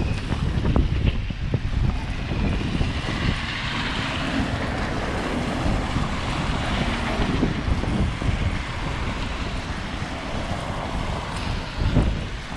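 Blizzard wind blowing hard across the microphone, a heavy buffeting rumble with a rushing gust that swells a few seconds in.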